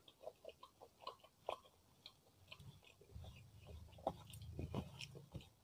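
Close-miked chewing of a mouthful of soft steamed rice with chili sauce: faint, wet mouth clicks and smacks, many small ones in a row, thickening about three seconds in.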